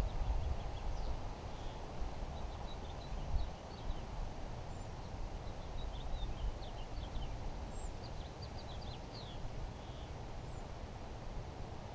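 Small birds chirping in short high notes, scattered through, over a steady low rumble.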